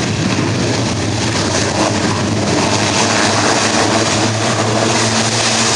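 Airbus A400M Atlas's four turboprop engines with propellers in reverse thrust during the landing roll, braking the aircraft. A loud, steady rush of propeller and engine noise with a low hum under it.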